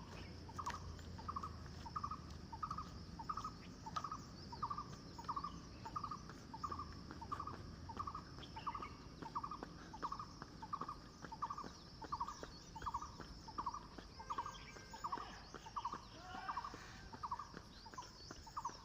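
A bird repeating a short call over and over at an even pace, about three calls every two seconds, with faint higher chirps of other birds or insects behind it.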